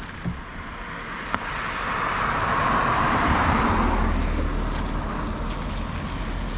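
A car passing on the road: tyre and engine noise that rises over a couple of seconds, peaks mid-way and fades away.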